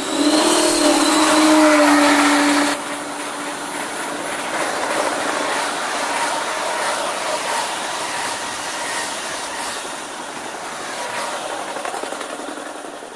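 Express passenger train hauled by a diesel locomotive running through a station at speed. A steady horn blast lasts about the first two and a half seconds and cuts off sharply. Then the coaches rush past with a continuous rumbling noise that fades toward the end.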